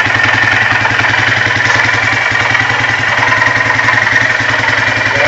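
2008 Polaris Sportsman 400 HO ATV's single-cylinder engine idling with a fast, even knocking rattle: the knock it makes mainly at idle and loses when given RPM.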